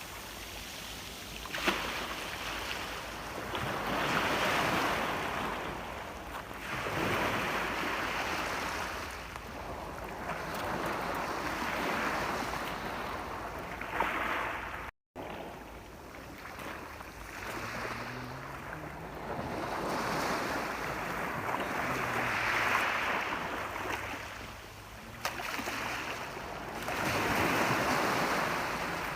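Ocean waves breaking and washing up on a shore in swells every few seconds. The sound cuts out briefly about halfway through.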